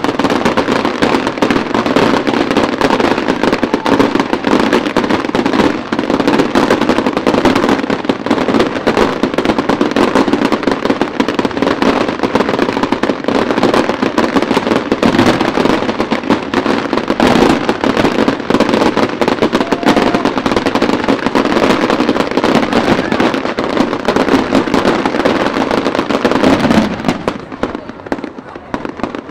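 Aerial fireworks going off in a dense, continuous stream of crackles and bangs, easing off near the end.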